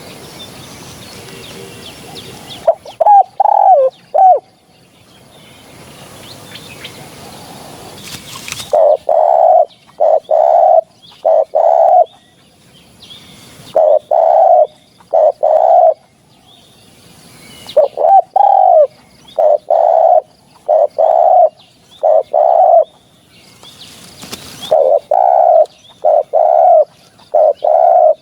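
Spotted dove cooing: five phrases of several low coos each, separated by pauses of a few seconds.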